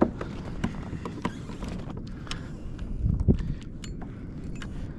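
Scattered small clicks and knocks of fishing gear being handled on a kayak, over a steady low rumble, with one heavier knock about three seconds in.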